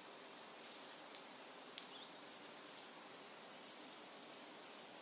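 Near silence: faint outdoor ambience with a few soft, scattered bird chirps.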